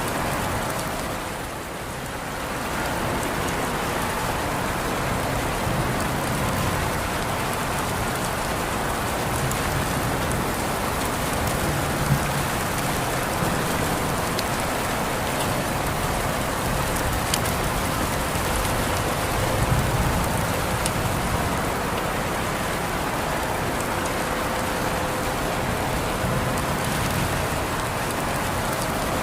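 Steady rain falling on a surface, with a few individual drops ticking out here and there.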